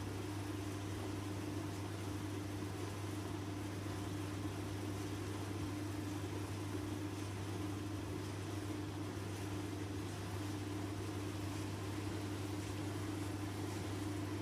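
Hoover Computer Logic D6330 vented tumble dryer running, a steady motor and fan hum with an even whooshing noise over it.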